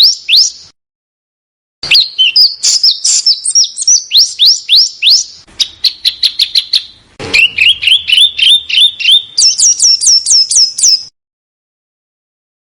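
Small songbird singing loud, rapid series of sharp, sweeping chirps in bursts. The note type changes from phrase to phrase, with a short buzzy trill in the middle, lower rising notes and then higher hooked notes, and brief silent gaps between bursts.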